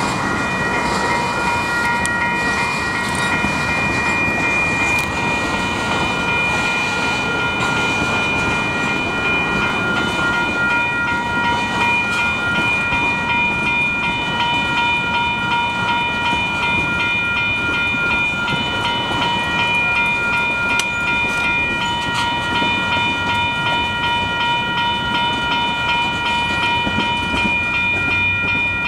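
Railroad crossing's WCH Type 1 electronic bells ringing in a fast, steady repeat over the rumble of a train rolling slowly through the crossing.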